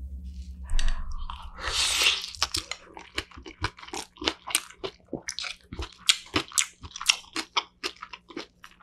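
Close-miked eating: a wet bite into a spoonful of rice about a second in, then crunchy chewing at about three crunches a second, the crisp young radish (yeolmu) kimchi crunching between the teeth.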